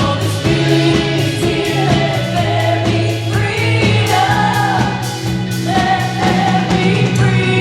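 Live worship band playing a gospel-style praise song, with several voices singing the melody together over held bass notes and a steady beat.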